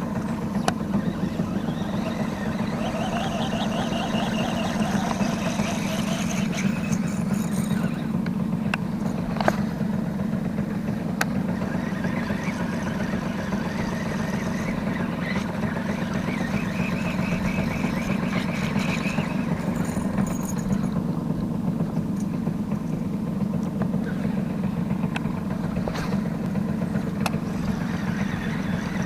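A boat's motor running steadily at an even low pitch, with a few sharp clicks over it.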